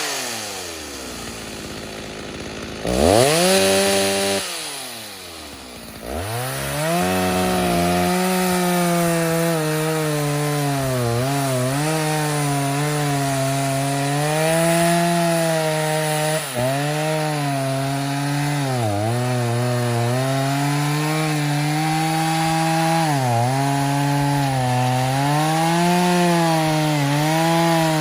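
Stihl 029 two-stroke chainsaw, freshly rebuilt, dropping from high revs toward idle and then blipped once. From about six seconds in, it runs at steady high revs while cutting wood, its pitch dipping briefly and recovering again and again under load.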